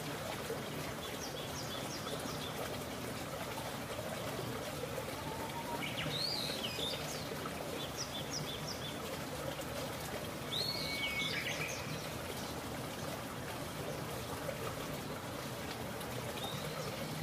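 Birds chirping several times over a steady outdoor hiss.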